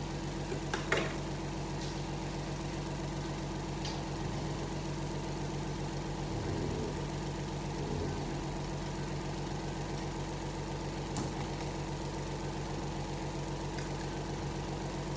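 A steady machine hum, even and unchanging, with a few faint clicks about a second in, around four seconds and again near eleven seconds.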